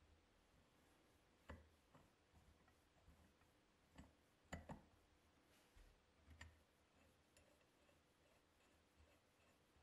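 Faint, sharp clicks and light taps, about half a dozen spread unevenly, with a pair close together near the middle and near silence between them.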